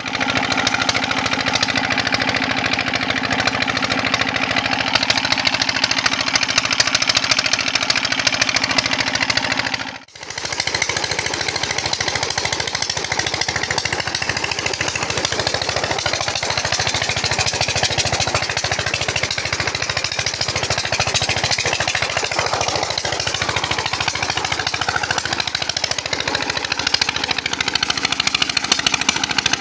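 Petter diesel engine driving a tube well pump, running steadily with a fast, hard knocking beat. The sound cuts out for a moment about a third of the way in, then comes straight back.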